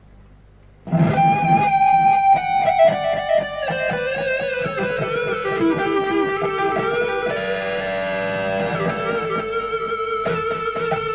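Ibanez AZ242PGB electric guitar playing a lead line on its single-coil pickup with a little delay, starting about a second in: long sustained notes with string bends and vibrato. Before the first note there is only a low amplifier hum.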